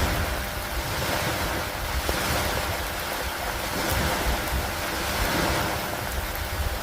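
Steady storm noise of rain and wind over lake water, surging and easing in swells about every two seconds like waves washing in, with a low rumble of wind on the microphone underneath.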